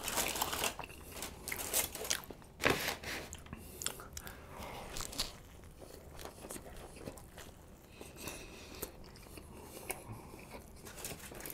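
Close-miked chewing and biting into a Chipotle steak burrito: wet mouth sounds with scattered clicks and crackles, busiest in the first few seconds.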